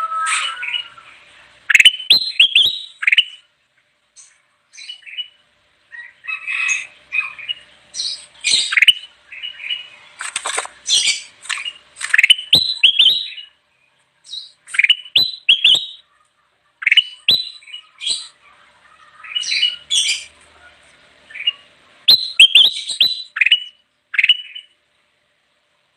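Kutilang emas bulbul singing: repeated short bursts of quick, sharp chirps and whistled notes, the phrases coming every second or two with brief pauses between them.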